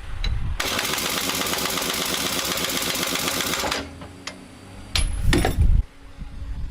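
Impact wrench hammering on a truck wheel's lug nut for about three seconds, tightening it. Near the end come a few clanks and a heavy low knock.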